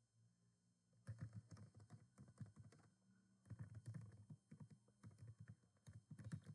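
Computer keyboard typing, faint: two quick runs of keystrokes, the first starting about a second in and the second following after a short pause.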